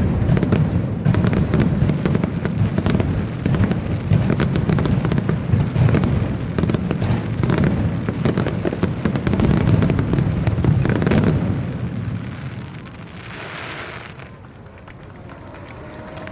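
Fireworks in a rapid barrage: many bursts and crackles overlapping with deep booms. The barrage dies away about twelve seconds in.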